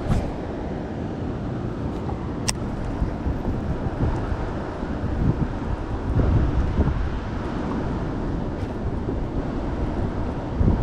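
Wind buffeting the microphone over a steady rushing noise, with a single sharp click about two and a half seconds in.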